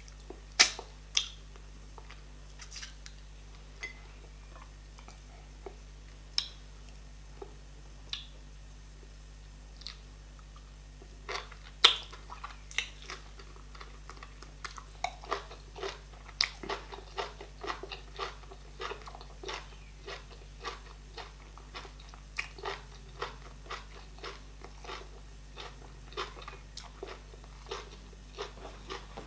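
Close-up chewing and wet mouth clicks of someone eating garri fufu with okra soup and meat. A few sharp clicks are scattered through the first dozen seconds, then the chewing turns steady at about two or three clicks a second.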